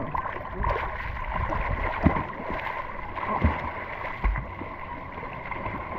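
Seawater sloshing and splashing around a camera in the sea, with a low rumble and a few sharp knocks about two, three and a half and four seconds in.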